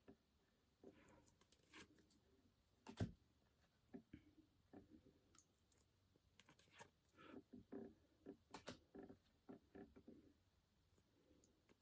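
Faint clicks and soft rustles of Pokémon trading cards being handled and flipped through, with a sharper tap about three seconds in.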